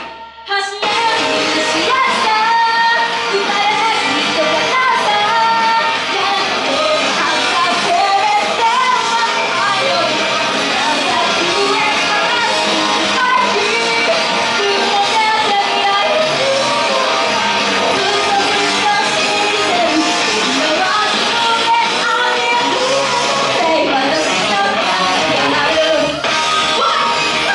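Loud live pop-rock song in a hall: a woman singing over electric guitar and backing music. It breaks off for about half a second right at the start, then carries on.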